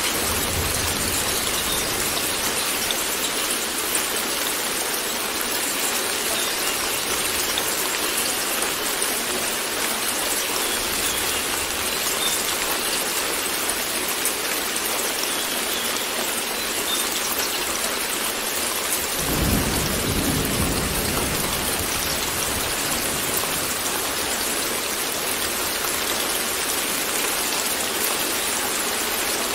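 Steady rain falling, with a low rumble of thunder rolling in about two-thirds of the way through and fading over a few seconds.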